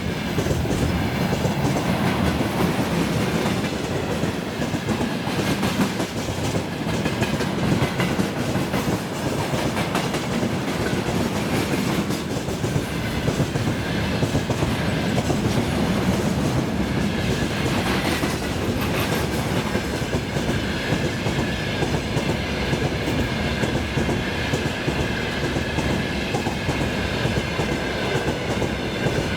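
Freight train rolling past at speed, a steady loud clatter and rumble of its wagons' wheels on the rails. A faint steady whine joins in about halfway through.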